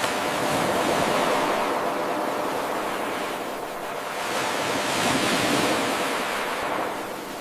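Ocean surf washing in: an even rush of waves that starts abruptly, swells, eases, then swells again before fading back.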